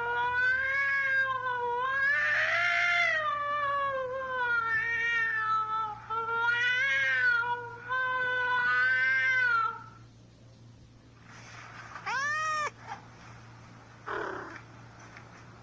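A cat caterwauling: long, wavering yowls that run almost without a break for about ten seconds. After a short pause comes one brief meow that rises and falls, then a few faint rustles.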